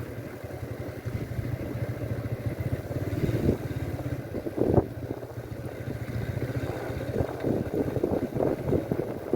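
An engine running steadily, with a low hum, and wind gusting on the microphone.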